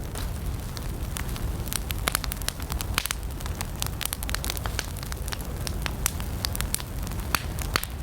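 Wood campfire burning: a steady low rumble of flames under irregular, frequent sharp crackles and pops from the burning wood.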